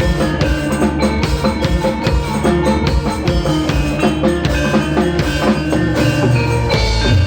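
Loud music with a steady drum beat and heavy bass, played through a large sound system under test. The bass swells near the end.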